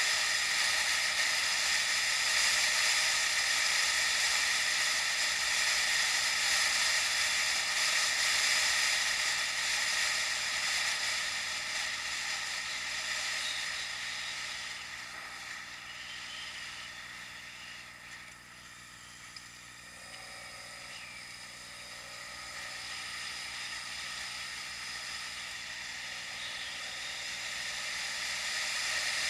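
Wind and riding noise rushing over a bike-mounted action camera's microphone as a steady hiss. It dies down to its quietest about two-thirds of the way in, as if the bike slows, then builds back up.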